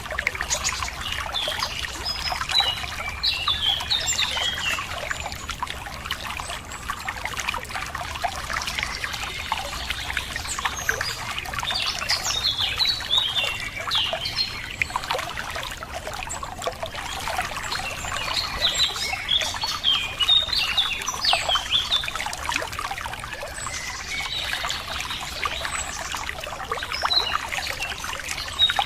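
Running water trickling and splashing steadily, with songbirds chirping and calling in repeated bouts over it.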